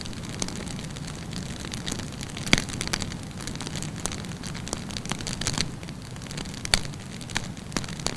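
Wood campfire burning: a steady low hiss and rumble of flames with scattered sharp crackles and pops from the burning wood, the loudest pops about two and a half seconds and nearly seven seconds in.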